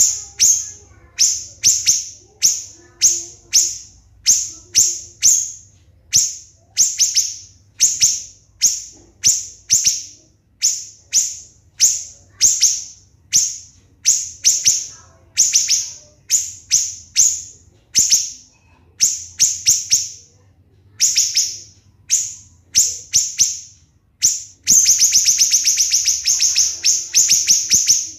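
Siri-siri songbird singing: short, sharp, high-pitched clusters of notes repeated about twice a second, then, about 25 seconds in, a loud, fast unbroken rattle of notes.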